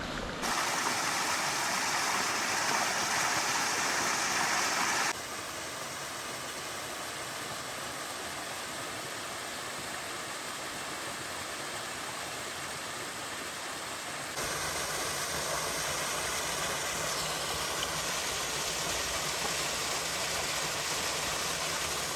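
Steady rush of a waterfall and creek. The sound jumps abruptly to a different level and tone twice: louder and brighter for the first five seconds, softer until about the middle, then louder again.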